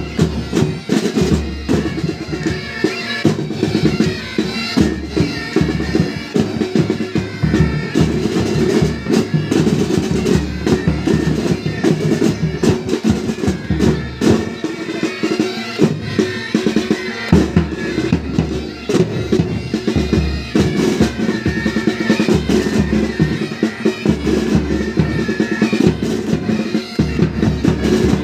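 Pipe band playing: bagpipes sounding a tune over snare drums and bass drum.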